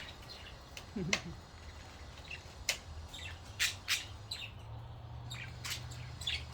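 Pet budgerigars chirping and squawking in short, scattered calls, with a faint low steady hum underneath.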